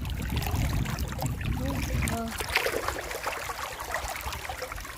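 Flowing river water, with a low rumble through the first two seconds or so.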